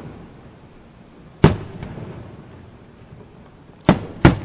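Aerial firework shells bursting: three sharp bangs, one about a second and a half in and two in quick succession near the end, each trailing off quickly.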